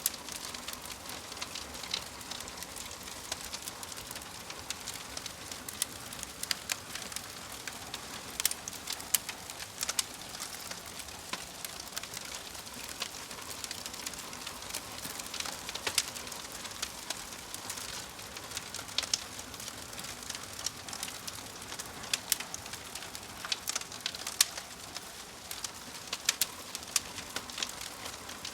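Wood fire crackling: a steady hiss with frequent sharp pops and snaps, several a second.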